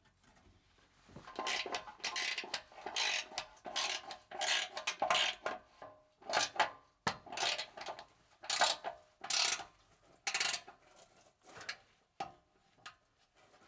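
A run of short metal scraping strokes, about one or two a second, each with a faint metallic ring. They start about a second in and die away near the end.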